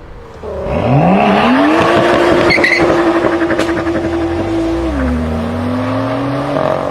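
A BMW performance car's engine revving up hard from low revs and holding high revs for about three seconds. About five seconds in the pitch drops, as at a gear change, then climbs again.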